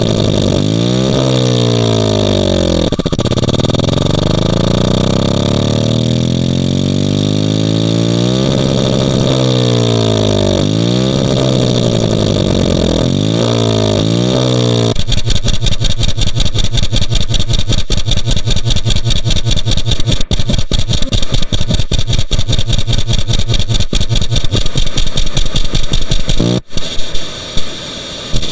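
Loud electronic, engine-like drone whose pitches sweep up and down against each other. About halfway through it switches to a rapid pulsing buzz that turns choppy near the end.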